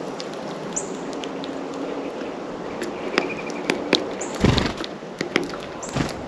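Small birds at a feeder: sharp taps and clicks of pecking and landing, with short high chirps and a brief quick trill. Two duller thumps come about 4.5 and 6 seconds in.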